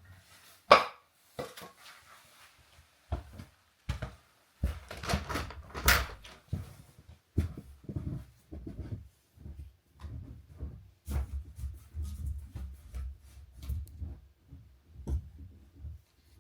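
Irregular knocks, clicks and low thumps of things being handled and set down indoors, with a sharp knock a little under a second in and another loud one about six seconds in.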